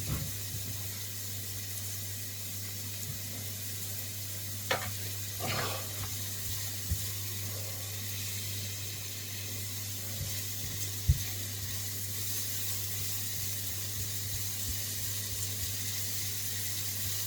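Onions sweating gently in a wok over medium heat, a steady soft sizzle as the salt draws their moisture out. A few light knocks come through it, and a steady low hum sits underneath.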